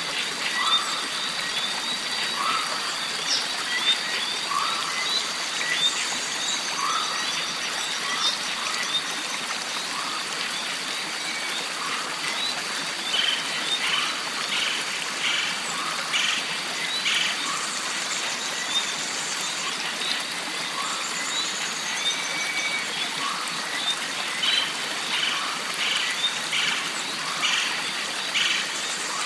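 Jungle stream ambience: running water throughout, under a steady high tone and wildlife calls. A short call repeats about once a second in the first half, and there are bursts of chirping and trills.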